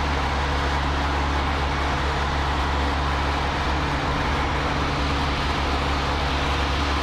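Cessna 152's four-cylinder Lycoming engine and propeller droning steadily in cruise, heard inside the cockpit.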